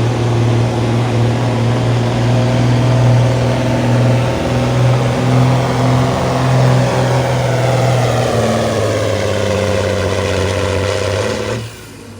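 Pulling vehicle's engine running hard at high revs, its pitch sagging slightly in the last few seconds before the sound cuts off suddenly near the end.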